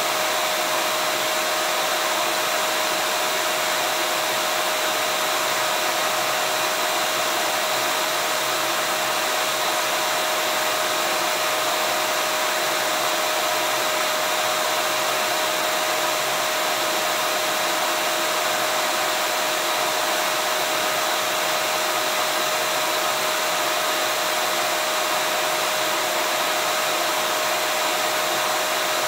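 Vacuum cleaner running steadily: an even hiss of rushing air with one constant whining tone, level and pitch unchanging.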